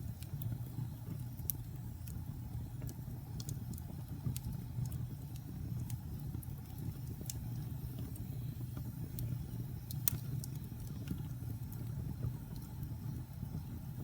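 Wood fire burning in a fireplace: a steady low rumble of the flames with scattered sharp crackles and pops, one louder pop about ten seconds in.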